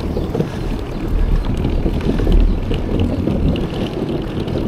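Wind buffeting the microphone while riding a bicycle: a steady, loud low rumble with no speech.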